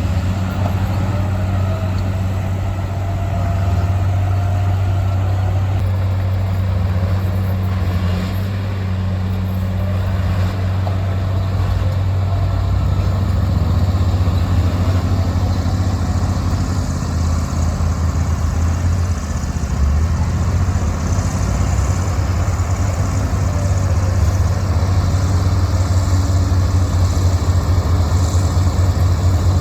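Heavy diesel engines of earthmoving machinery running steadily with a low, even drone, a little louder in the second half.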